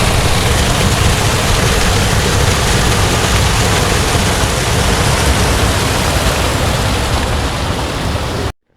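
Steady rushing of a moorland stream's small waterfall, a loud, even wash of water noise with a deep low rumble. It cuts off abruptly near the end.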